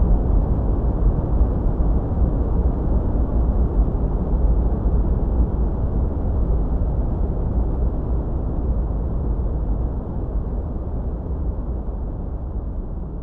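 Steady, deep noise from a white-noise sleep track, with no distinct events, heavy in the bass and dull in the highs, slowly fading out toward the end.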